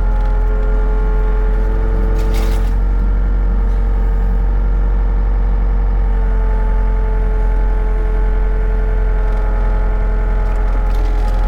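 Excavator's diesel engine running steadily during a cold-weather warm-up, the hydraulics being cycled so the thickened hydraulic oil thins out. A brief clack comes about two and a half seconds in.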